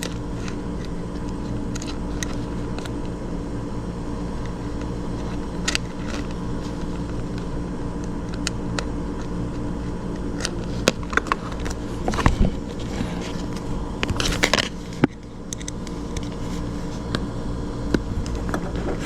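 Small metallic clicks and taps of a screwdriver and screw knocking against a dishwasher's wiring box, bunched together about halfway through, over a steady background hum.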